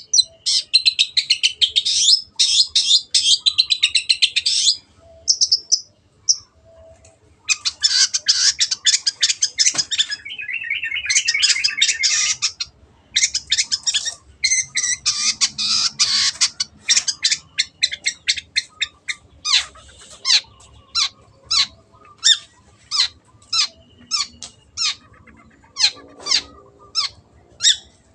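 Long-tailed shrike (cendet) singing: long runs of fast, dense chattering song broken by short pauses, then from about 19 s a string of separate sharp calls about two a second.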